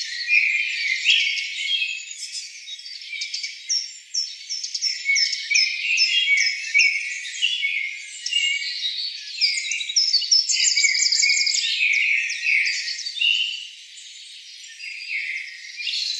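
Small birds chirping, many quick high notes and short falling calls overlapping without a break.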